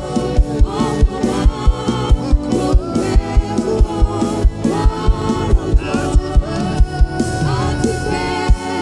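Gospel worship music: a choir singing with a band over a steady drum beat.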